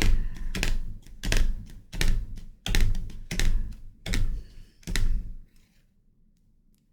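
A series of about eight thumps with sharp clicks, roughly one every two-thirds of a second, stopping about five and a half seconds in: objects being handled or set down on a surface at the reading table.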